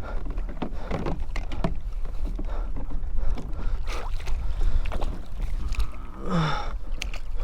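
Wind buffeting the microphone and water around a kayak, with scattered short clicks and knocks, and a brief grunt about six seconds in.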